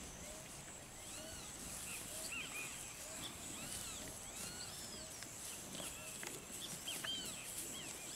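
Birds calling: repeated short arched chirps, several each second, faint over a steady high-pitched hiss.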